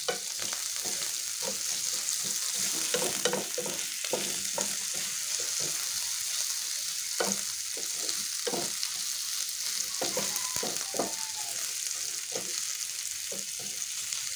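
Sliced onion, garlic and ginger sizzling in hot oil in a frying pan, stirred with a wooden spatula that scrapes and knocks against the pan again and again over a steady hiss.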